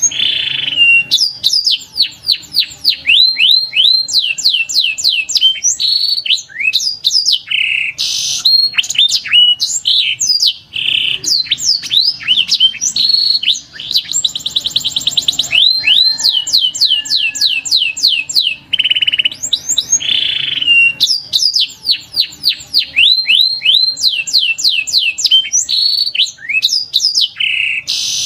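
Domestic canary singing a long, continuous song of high-pitched trills and runs of rapid downward-sweeping notes, with a fast buzzy rattle about halfway through.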